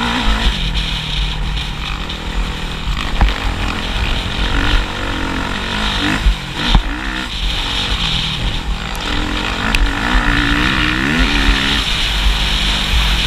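Motocross motorcycle engine revving up and down repeatedly as it is ridden through the gears, over a constant low rumble with a few sharp knocks.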